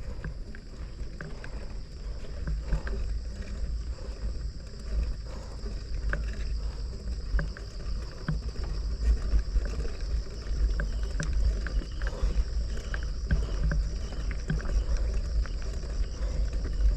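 Wind buffeting the microphone of a rider on a moving bicycle, a steady low rumble, with scattered small clicks and rattles from the bike.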